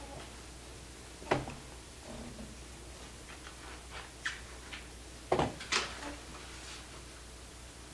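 A few sharp knocks and clicks: one about a second in, a scatter of lighter ticks in the middle, and two louder ones close together about five and a half seconds in.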